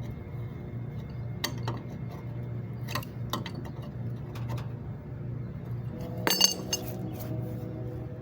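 Scattered clicks and light metallic taps, with one louder ringing metal clink about six seconds in, over a steady low hum.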